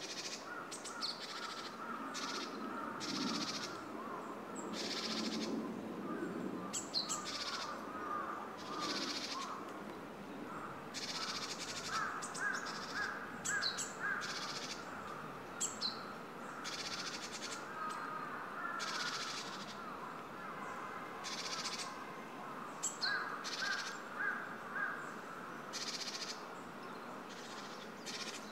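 Wild birds calling: brief high calls recur every second or two, and twice a run of four or five short calls comes quickly in a row.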